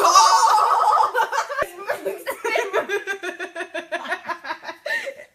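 People laughing hard, a fast run of high-pitched laughs that is loudest in the first second or so, then carries on in quicker, lighter pulses.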